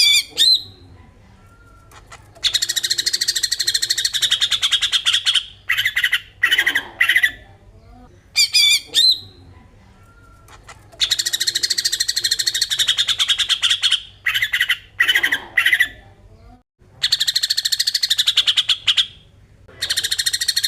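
Green leafbird (cucak ijo) song in its rapid 'besetan' style: long, fast, buzzy rattling trills, each a few seconds long, alternate with short clear whistled phrases. The same sequence repeats about every eight and a half seconds, as a looped recording does.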